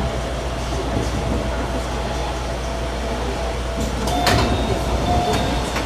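Train running on rails: a steady rumble with a faint steady whine. A sharp clank comes about four seconds in, after which the whine sits a little higher.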